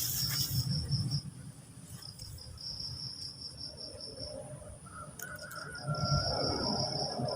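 Insects trilling in high, rapidly pulsed runs that stop and start, over a low rumble, with a sharp click right at the start.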